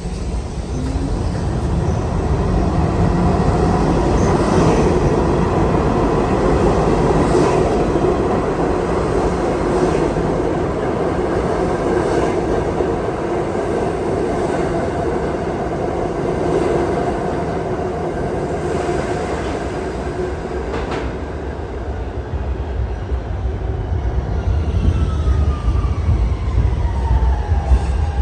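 New York City subway train running, a steady loud rumble with a faint click every two seconds or so from the wheels. Near the end a whine falls in pitch.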